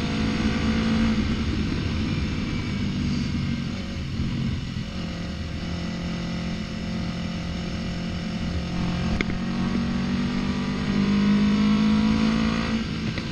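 Yamaha MT-03 motorcycle engine running under way with road noise. Its pitch climbs and it gets louder toward the end as the bike speeds up, and there is one short click about nine seconds in.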